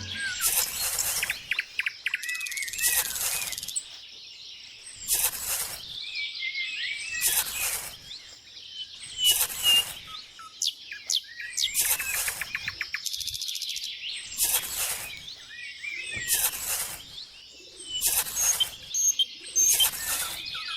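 Birds chirping and calling, with a short hissing burst about every two seconds.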